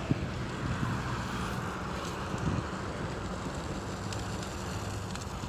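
Steady low mechanical hum under wind noise on the microphone.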